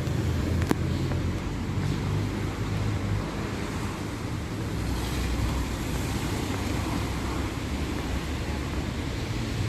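Steady street traffic noise: a continuous low rumble of passing car engines over an even hiss of road noise.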